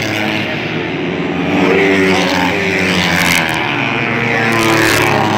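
Several dirt bike engines racing together around a dirt track, their pitches rising and falling as the riders accelerate and back off.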